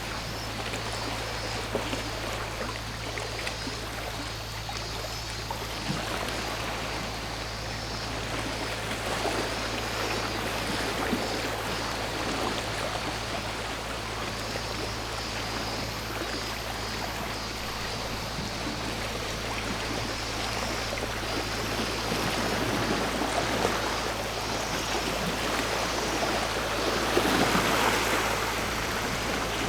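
Sea waves washing over a shore in a constant rushing wash, with a bigger wave surging up about 27 seconds in. A faint, high cicada drone sits above the water.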